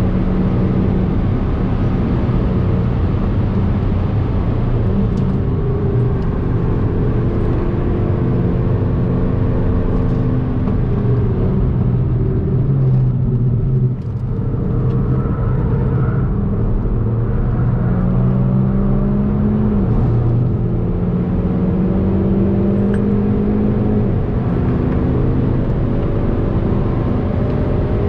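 Hyundai i30 N's turbocharged 2.0-litre four-cylinder engine heard from inside the cabin under hard driving, its pitch climbing and dropping back repeatedly as it runs up through the gears, over steady tyre and road noise. The sound eases off briefly about halfway through.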